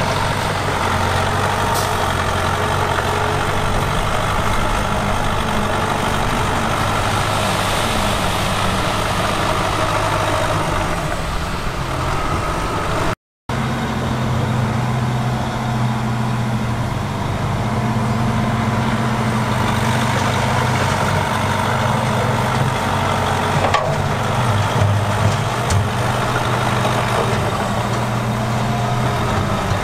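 Heavy earthmoving machinery's diesel engine running steadily with a low drone. The sound drops out for a moment about thirteen seconds in, then the engine sound resumes at a slightly different pitch.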